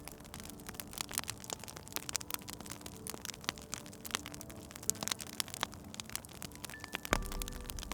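Wood fire crackling, with frequent irregular sharp snaps and pops and a heavier low pop about seven seconds in.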